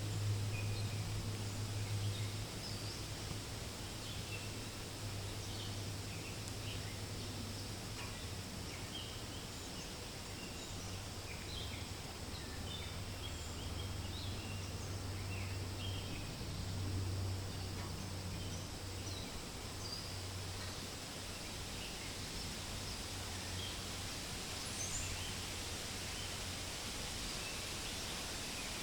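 Forest ambience: a steady rustling wash of wind through leaves, with many short, high bird chirps scattered throughout. Under it runs a low steady hum that swells and fades.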